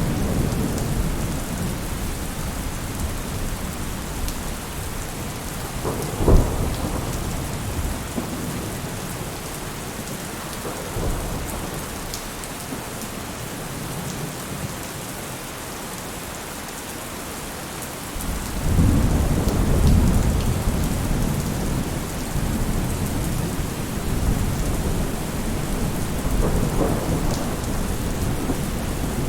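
Steady heavy rain with rolling thunder: a sharp crack about six seconds in, and a long low rumble that swells about two-thirds of the way through and fades slowly.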